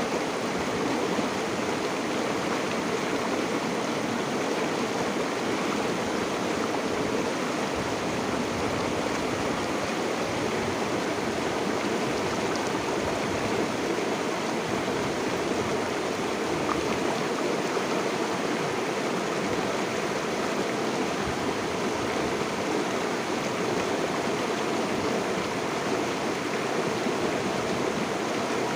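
Stream water flowing steadily over rocks, a continuous rushing and babbling with no breaks.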